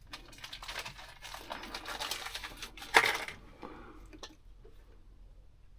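Rustling and light clicking of parts being handled, with one sharp knock about three seconds in, then a few faint clicks.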